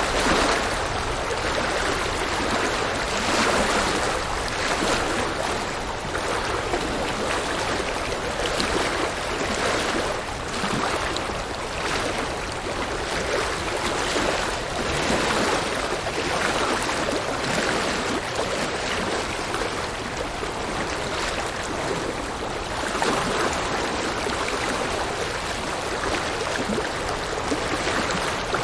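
River water rushing and babbling steadily over rocks, in a continuous rushing noise with small swells.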